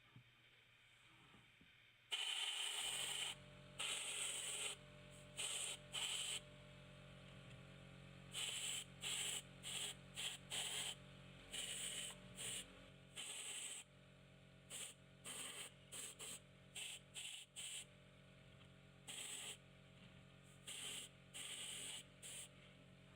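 Airbrush spraying paint in many short, irregular bursts of hiss as the trigger is pressed and released, over a steady low hum.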